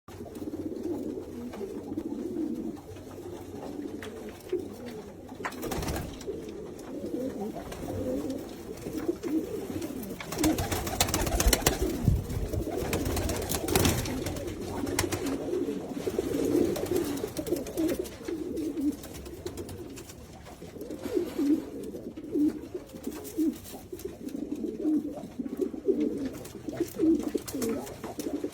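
Many domestic pigeons cooing together, a continuous overlapping murmur of low calls from a flock. A louder noisy stretch comes in the middle.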